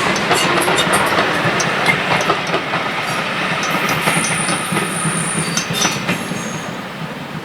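Train rolling past on the rails, its wheels clicking over the rail joints, with a brief high squeal about halfway through; the sound slowly fades as the train moves away.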